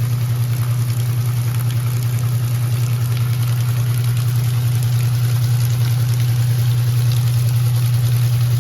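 Electrolux LE06DBD top-load washing machine running, its motor giving a steady low hum with a fast, even pulsing and a faint watery noise above it.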